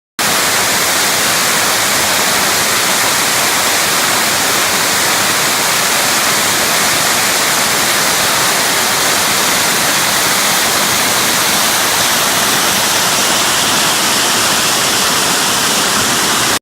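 Waterfall: a steady, loud rush of falling water with no change in level, beginning abruptly just after the start and cutting off suddenly at the end.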